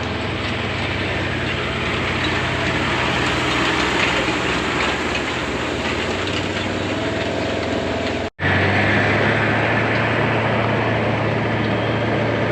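Farm vehicle engine running steadily with a low hum. It cuts out abruptly for an instant about eight seconds in, then carries on slightly louder.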